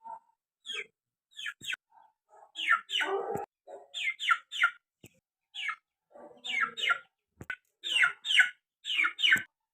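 Bird chirping: short, quickly falling chirps, mostly in pairs, repeated about once a second, with a few lower clucking calls in between.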